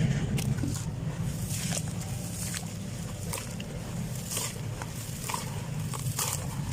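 Dry sand-cement clumps crumbling and crunching, with irregular crisp crackles over a steady low hum.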